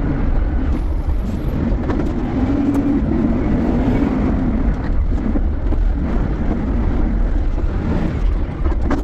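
Engine of an empty container handler, a large container-lifting forklift truck, running steadily with a low wavering hum.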